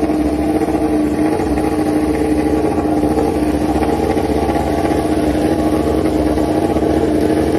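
A racing motorcycle engine running at steady, unchanging revs, loud and even, as on a warm-up.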